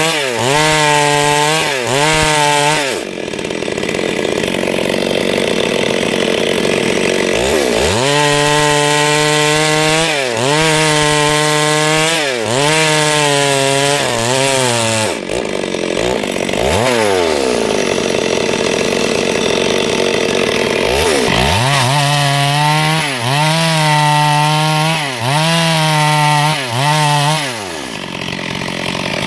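Two-stroke chainsaw running while cutting wood, its engine speed rising and dipping over and over, with a few longer stretches held at high revs. Near the middle it drops off and then picks up again.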